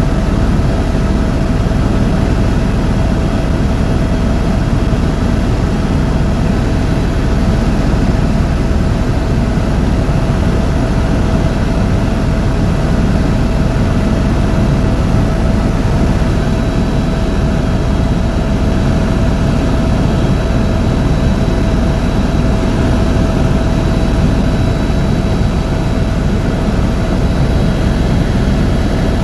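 Tour helicopter in flight: steady, loud engine and rotor noise, a low rumble with a constant whine over it.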